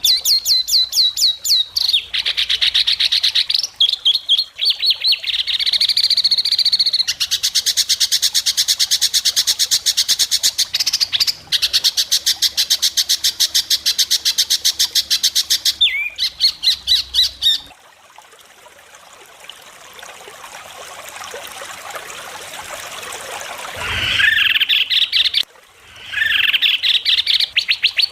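White-rumped shama singing a 'besetan': very fast, sharp rattling trills repeated in long runs. About two-thirds of the way through the song drops to a quieter hiss that swells for several seconds before the sharp trills return.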